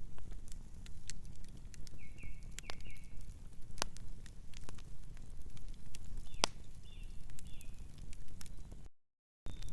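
Wood fire crackling, with sharp pops over a low rumble of burning. Faint bird chirps come twice, about two seconds in and again past the middle. The sound cuts out completely for half a second near the end.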